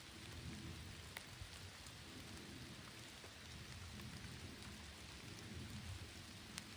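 Steady rain falling, with a low, uneven rumble underneath and a few sharper drop ticks, the clearest about a second in and near the end.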